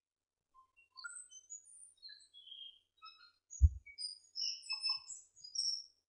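Birds chirping: many short, high notes at varying pitches, scattered irregularly and thickest in the second half. A single dull thump about three and a half seconds in is the loudest sound.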